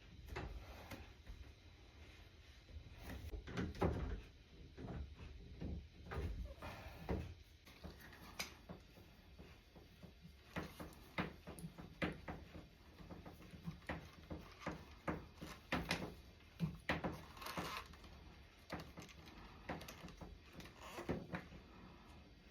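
Faint, irregular clicks, taps and knocks of plumbing parts and tools being handled while a shower head is taken off and fitted.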